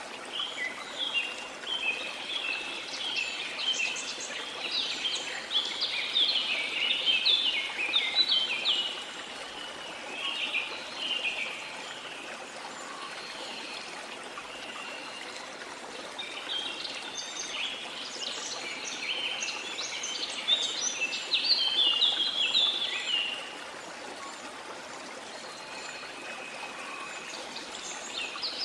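Songbirds singing in long bursts of rapid, chirping song, over a steady wash of water.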